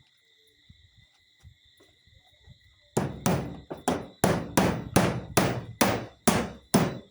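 Hammer driving nails: about eleven sharp blows at a steady two to three a second, starting about three seconds in.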